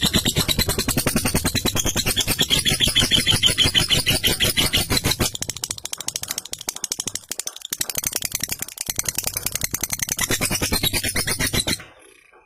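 Lovebird's long 'ngekek' chatter: a very fast, rattling run of harsh repeated notes kept up without a break, cutting off sharply near the end.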